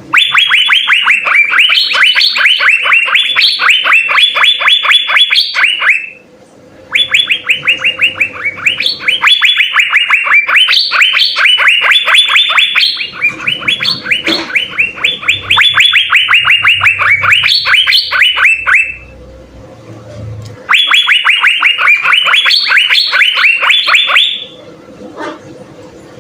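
Asian fairy-bluebird (cucak biru) singing loudly in long runs of rapid repeated sharp notes. The song comes in three bouts, with brief pauses at about six seconds and again around nineteen to twenty seconds.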